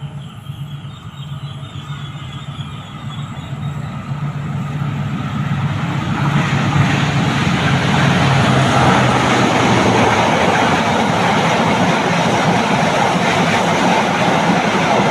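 A train approaching and passing at speed: a steady low engine drone under a rushing rumble of wheels on rails that grows louder over the first seven seconds and then stays loud.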